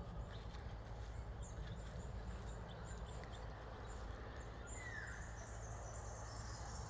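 Faint, scattered bird chirps and one short descending call about five seconds in, over steady outdoor background noise.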